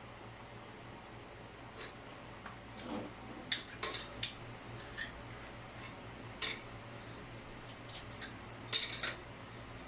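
Scattered light metallic clinks and clicks, irregular, of tools and fittings being handled, over a steady low hum.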